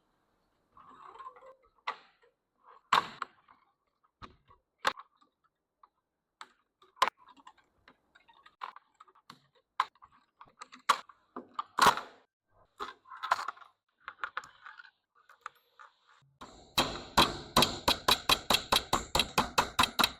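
Small metal parts and tools clicking and knocking as they are handled, in scattered single strokes. About three-quarters of the way through, a rapid even run of clicks starts, about seven a second, and goes on to the end.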